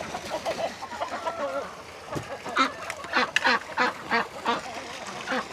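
Domestic ducks quacking: softer calls at first, then a run of short, loud quacks, several a second, through the second half.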